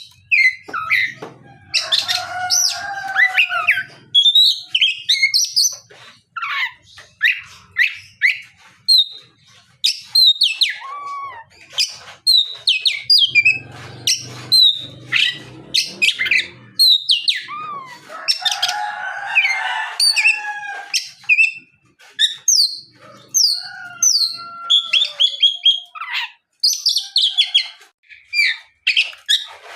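Oriental magpie-robin (kacer) in full song: a long, varied stream of sharp whistles, pitch glides and quick chirps, broken by short pauses between phrases.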